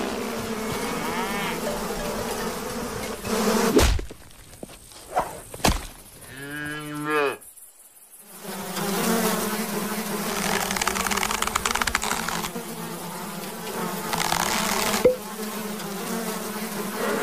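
Cartoon insect wings buzzing in a steady droning hum. About four seconds in the buzz breaks off with a sharp hit. A short falling call follows, then a brief silence, and the buzzing resumes.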